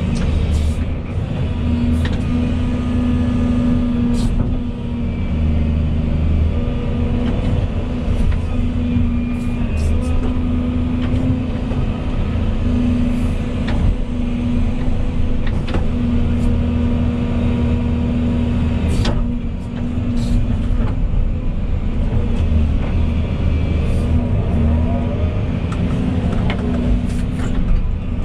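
Volvo EC220E excavator's diesel engine running steadily under load with a constant drone, broken by a few sharp knocks.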